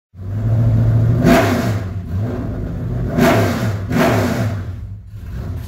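Car engine revving, with three louder surges of throttle about one, three and four seconds in.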